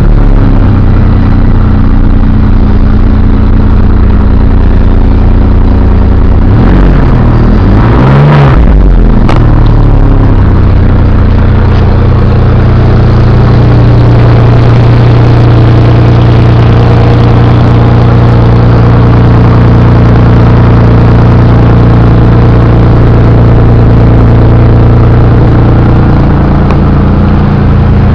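Porsche Boxster S 3.2-litre M96/21 flat-six running loudly, blipped once about seven seconds in so the note rises and falls, then settling back to a steady idle.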